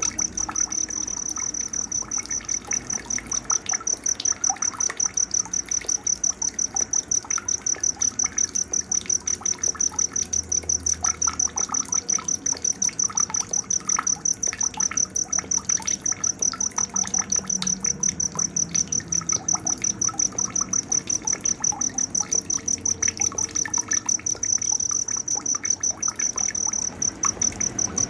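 Night nature sounds: an insect's high-pitched trill pulsing rapidly and evenly without a break, with scattered short bird chirps underneath.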